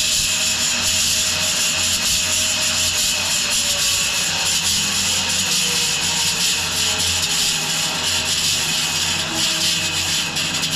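Wide bandsaw mill sawing through a large maple log: a steady hiss of the blade in the wood over a low, even hum from the mill's drive.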